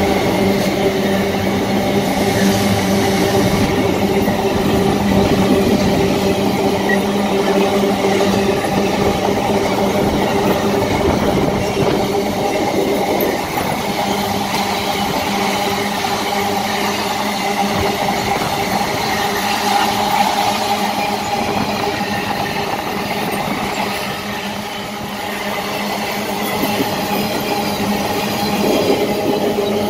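Freight train of open gondola wagons rolling past at close range, steel wheels running over the rails, with a steady droning tone under the rolling noise.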